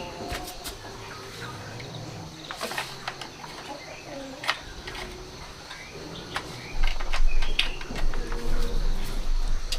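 Faint bird calls over scattered clicks and taps, with a low rumble coming in about seven seconds in.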